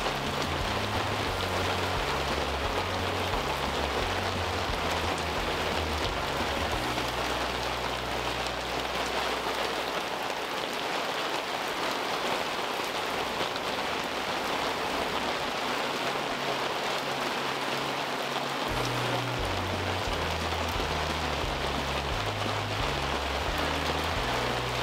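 Steady rain falling, an even, dense hiss that holds at one level throughout.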